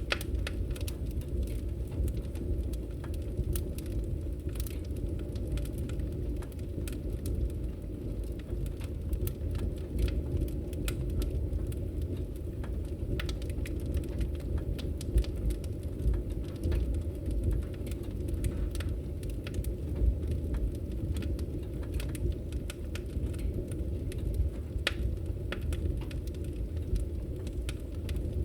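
Wood fire crackling in a fireplace: a steady low rumble of burning with many small, irregular crackles and pops throughout.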